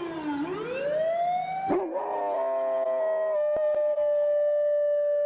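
A wailing siren sweeping down and back up, with a dog howling along. It cuts off abruptly about two seconds in, and a dog then holds a long, steady howl that wavers slightly near the end.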